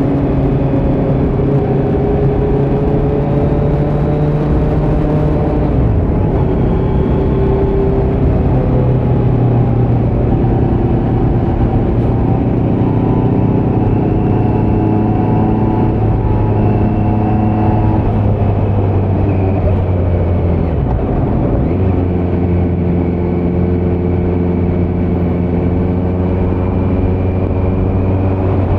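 2018 Kawasaki Z900's inline-four engine through a Leo Vince muffler on stock headers with no dB killer, under way at fairly steady revs. Its pitch steps down a few times, with a sharp dip and recovery about 21 seconds in, as at a gear change.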